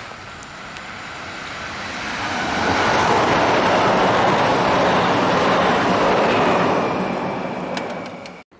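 Electric multiple unit passing close at speed: a rush of wheels on rail and air that builds up, is loudest for several seconds as it goes by, then fades, cutting off abruptly near the end.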